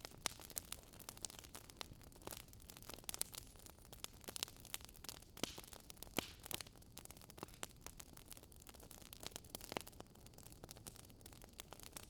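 Wood fire crackling in a fireplace: irregular sharp pops and snaps over a soft, steady hiss of burning logs.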